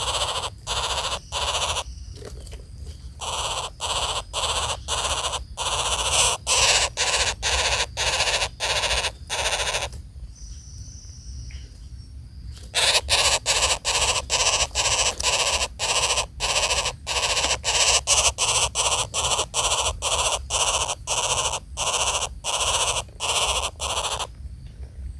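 Harsh, rasping calls repeated about twice a second, most likely woodpecker nestlings begging in the nest. They pause for a few seconds in the middle, then start again.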